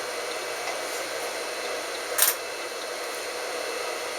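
Steady hiss with one sharp click about two seconds in.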